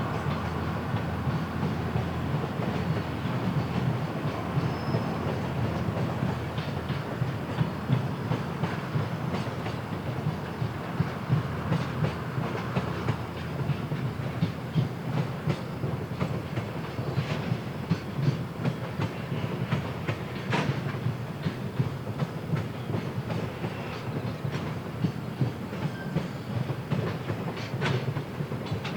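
Freight train wagons rolling past, wheels clicking and clacking over the rail joints in an irregular run over a continuous rumble.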